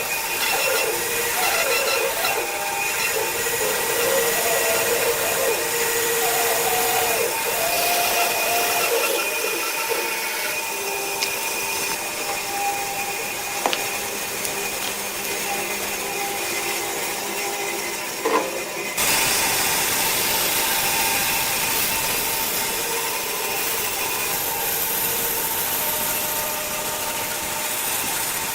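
Woodworking power-tool noise, machines working wood with a steady hiss. The sound changes abruptly about two-thirds of the way through.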